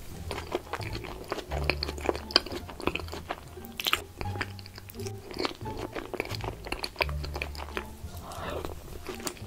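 Close-miked wet chewing and mouth sounds of a woman eating soggy, sauce-drenched cheese fries, with many sharp clicks. Background music with a low bass line plays underneath.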